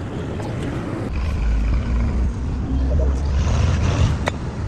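Engine running with a low rumble that swells about a second in and eases near the end, with one sharp knock shortly before it stops.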